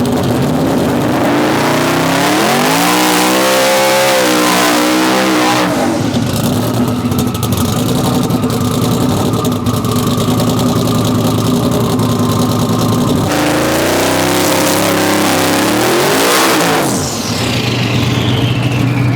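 Drag-racing pickup truck engine idling, then revving up twice with the pitch rising each time. A high whistle falls away near the end.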